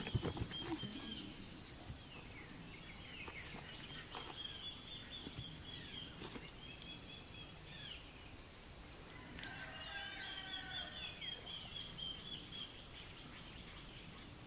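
Birdsong: short high chirping and warbling phrases repeat throughout, with a longer call in several layered tones about ten seconds in, over a steady background hiss. A short knock sounds right at the start.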